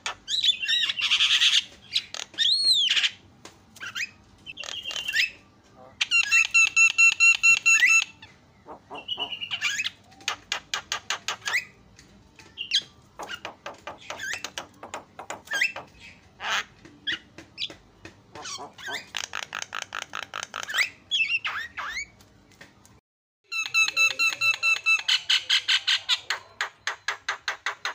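Javan myna (jalak kebo) singing a loud, varied song of rapid chattering trills, whistled glides and harsh buzzy notes, breaking off briefly near the end before starting again.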